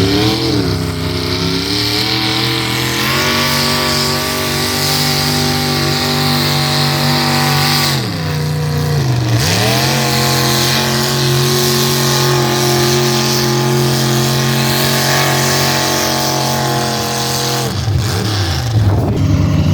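Engine of a pulling vehicle running at high revs under load. The revs dip sharply and climb back about eight seconds in, then hold steady and fall off near the end.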